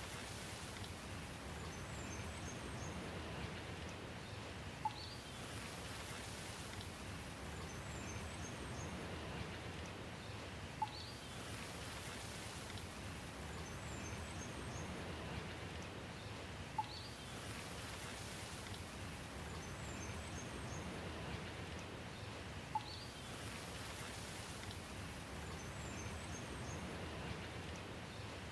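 Steady rainfall with a few small, high bird chirps. The same short tick and chirps come back about every six seconds, like a looped recording.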